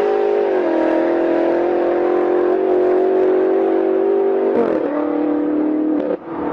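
A BMW's engine and exhaust running at fairly steady revs, the pitch stepping down twice. The sound breaks off abruptly near the end and a different engine note follows.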